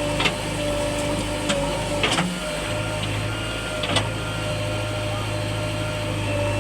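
Diesel engine of a tractor or JCB backhoe loader running steadily, with a few sharp knocks in the first four seconds. About two seconds in, the engine note wavers, then settles again.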